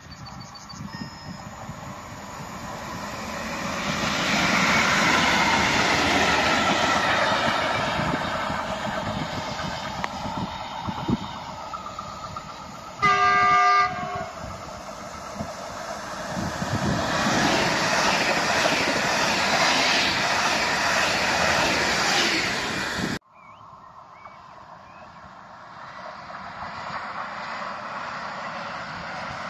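Electric trains running through a station at speed: a DB Vectron electric locomotive and its train rumbling and clattering past over the first ten seconds. About 13 seconds in, an approaching ED160 electric multiple unit sounds one horn blast of about a second, then passes loudly over the rails. After a sudden cut, an EN63 regional electric unit runs along the line, more distant and quieter, slowly growing louder.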